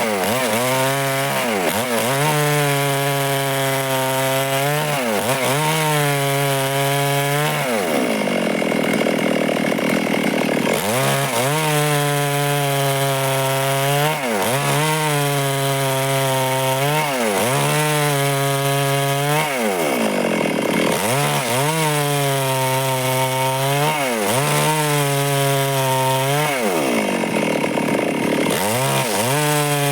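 Stihl two-stroke chainsaw cutting through wood at high revs, with the chain rasping steadily. The engine pitch dips briefly and climbs back about every two to three seconds.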